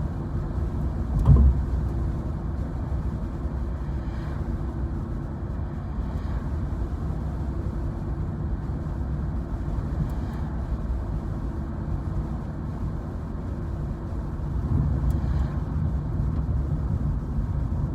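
Road and engine noise inside a moving car's cabin, a steady low rumble, with one sharp thump about a second in and the rumble growing a little louder near the end.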